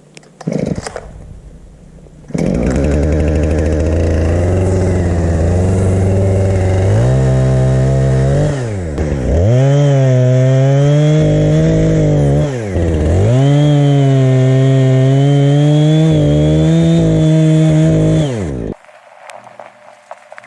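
Chainsaw engine starting, running at a low speed, then held at high throttle with two brief drops in pitch before it cuts off abruptly a couple of seconds before the end.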